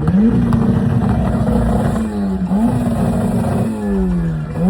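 Car engine revved three times: each time the pitch climbs quickly, holds steady at high revs for a second or more, then sinks slowly as the revs fall.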